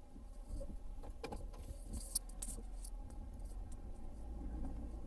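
Pickup truck engine running low, heard from inside the cab, with a few sharp light clicks and rattles between about one and three seconds in.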